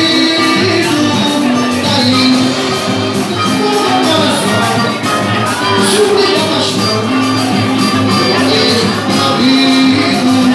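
Live band playing upbeat Latin-style music, with steady percussion under sustained melodic instrument lines.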